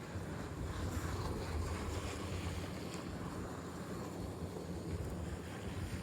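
Wind buffeting the microphone in a snowstorm: a steady low rumble with a gusty hiss that swells about a second in.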